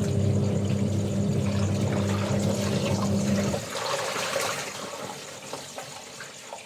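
Water running and splashing with a low, steady electric motor hum that cuts out about three and a half seconds in, leaving softer water sounds. A faint, steady chirring of insects sits high in the background.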